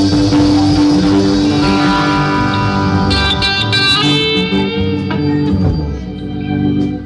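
Band playing the instrumental ending of a song, led by guitar, with bright high guitar notes about halfway through, then a final held chord that stops at the very end.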